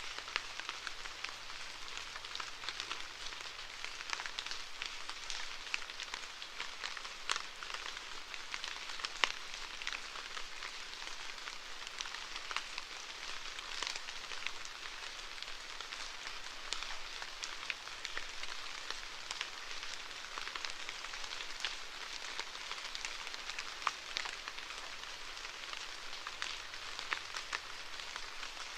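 Steady rainfall: an even hiss of rain with many separate drop hits scattered throughout, holding at a constant level.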